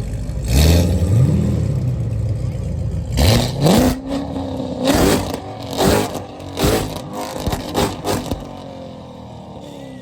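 Performance car engine revving hard as it pulls away: two rising revs, then a string of sharp throttle blips, then fading as the car drives off.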